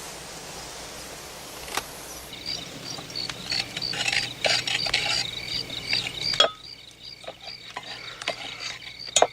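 Insect chirping in a steady high rhythm, with scattered clicks and knocks; the background hiss drops off abruptly about six seconds in.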